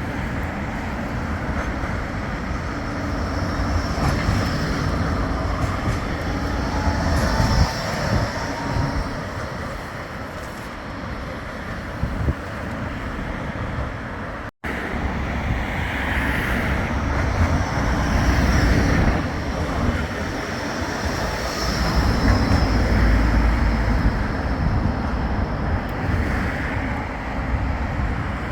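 Bombardier Flexity 2 light-rail tram running along street track, with a steady rumble and a high whine that rises and fades at times. The sound cuts off suddenly about halfway through and resumes on a second tram run.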